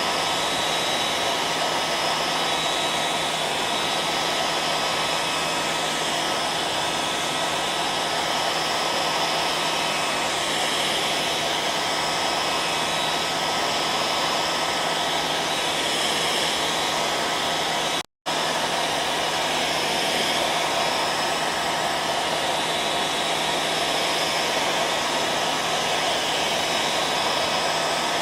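Hair dryer running steadily, a continuous airy rush with a faint steady whine in it. The sound cuts out completely for an instant about two-thirds of the way through, then resumes unchanged.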